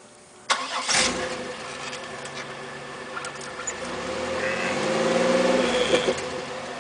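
Oldsmobile LSS's supercharged 3800 Series II V6 starting about half a second in, with a loud flare as it catches, then idling through a nearly stock exhaust. From about four seconds in it is revved once, rising in pitch, and drops back to idle near the end.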